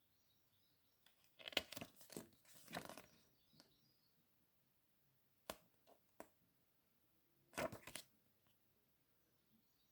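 CD packaging being handled: plastic wrap crinkling and tearing in two bursts, about a second and a half in and again near the three-quarter mark, with two sharp clicks between them.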